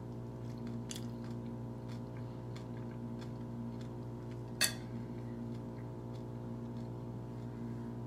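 A person chewing a mouthful of salmon taco with her mouth closed, with a few soft mouth clicks and one sharper smack about halfway through, over a steady hum.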